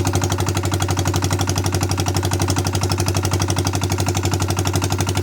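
Small tractor engine running steadily with an even, rapid chugging of about ten beats a second.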